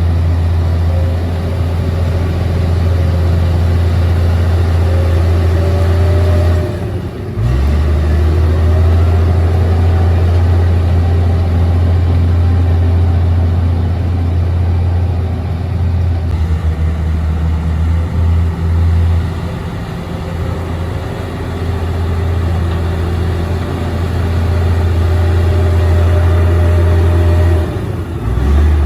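Komatsu D58P bulldozer's diesel engine running steadily, with its note dropping briefly about seven seconds in and again near the end. A fainter whine above it rises and falls.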